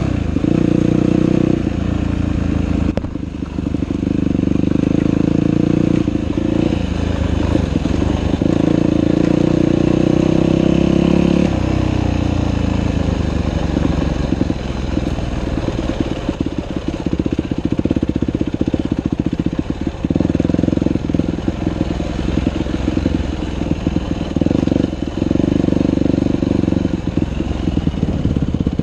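Dirt bike engine running under throttle, revs rising and falling. About twelve seconds in the revs drop and the engine runs choppy at low revs, picking up again in short surges.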